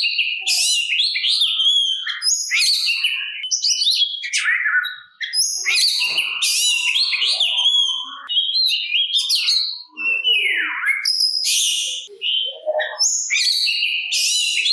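Oriental magpie-robin (kacer) singing a rapid, varied song of whistles, trills and chirps, with short breaks about five and ten seconds in.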